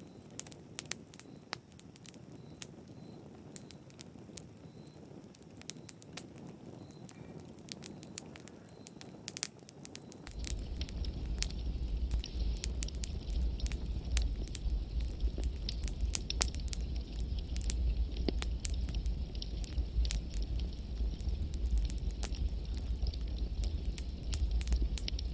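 Wood fire crackling with many sharp pops. About ten seconds in, a steady low rumble of flames comes in and the fire gets louder.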